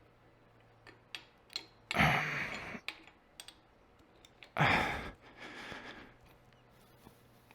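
Small clicks and handling noise from working on a motorcycle fork, with two louder rustling bursts of under a second each, about two and four and a half seconds in.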